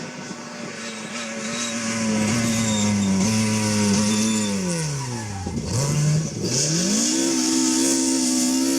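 Rally car engine coming closer and running hard, its note dropping steeply about five seconds in as the driver lifts off, then climbing again as it accelerates away, with a hiss of tyre noise rising in the second half.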